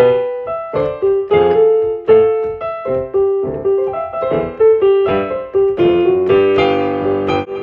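Background music: a solo piano playing a melody of separate struck notes.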